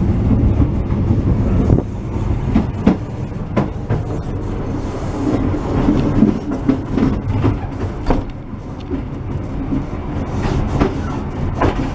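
Passenger train running on the rails, heard from inside the carriage: a steady low rumble with scattered sharp clacks of the wheels over rail joints. The rumble gets quieter about two seconds in.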